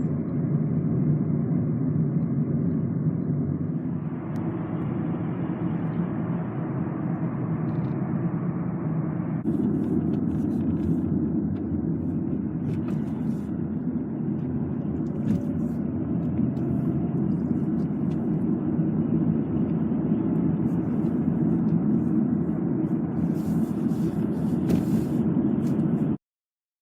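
Steady low road and engine rumble of a car heard from inside the cabin while driving, cutting off suddenly near the end.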